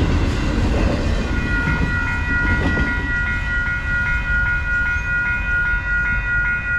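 Freight train cars rolling over a railroad crossing with a low rumble that eases off about three seconds in. The crossing's warning bell rings at a steady, even rate.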